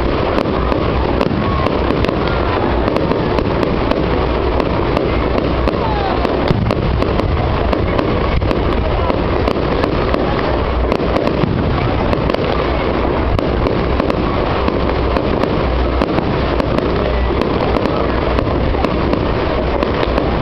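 Fireworks going off: a dense, unbroken run of pops and bangs in quick succession.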